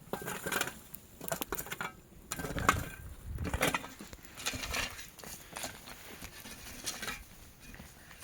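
Broom of dry thorn branches scratching and sweeping over dirt and debris in irregular strokes, with crackling and clicks, busiest in the first half.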